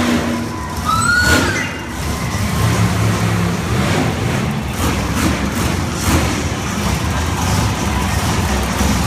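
Large vehicle engines rumbling steadily at a monster truck show, with a short high whistle-like tone about a second in.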